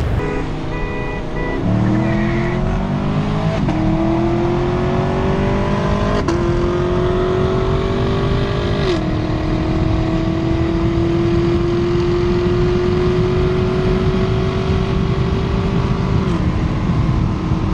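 Car engine at full throttle, accelerating hard through the gears: the pitch climbs steadily and drops at four upshifts, each gear pulling longer than the last.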